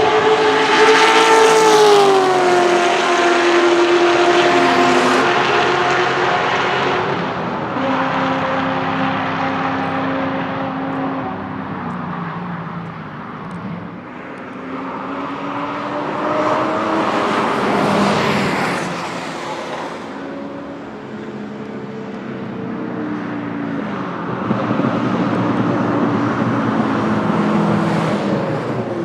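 Corvette C6 Z06's 7.0-litre V8 running hard through side-pipe exhausts on a track. The engine note falls in steps and swells in loudness twice, about two seconds in and again around eighteen seconds.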